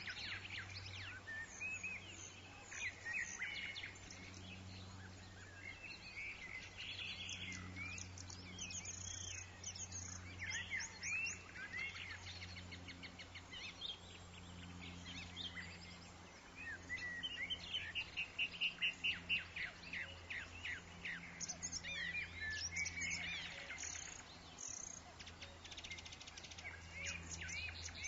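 Woodland birds chirping and singing, several calls overlapping, with a quick run of repeated notes about two-thirds of the way in. A steady low hum runs underneath.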